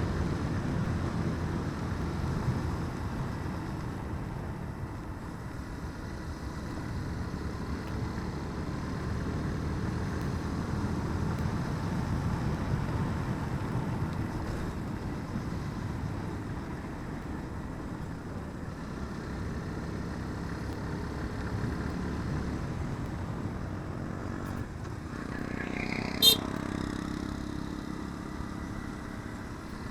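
Motorcycle running under way, its engine note swelling and easing with the throttle. A short, sharp, higher sound cuts in once near the end.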